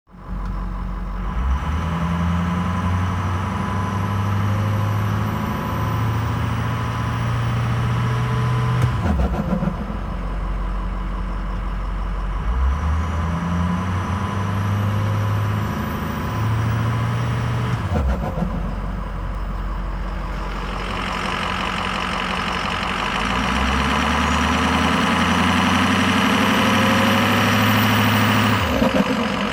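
2007 Ford F-350's stock 6.0 Power Stroke turbodiesel V8, revved and held three times, the stock turbo's whistle rising as the revs hold. Each time the throttle is let off and the revs fall there is a short fluttering chatter from the turbo, the turbo flutter.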